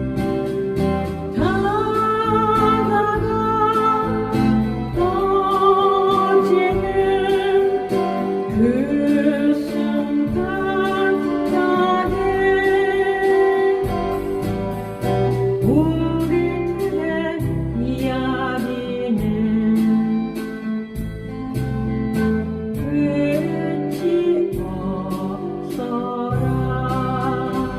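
A slow song sung with vibrato over a strummed acoustic guitar; the guitar plays alone briefly before the voice comes in about a second and a half in.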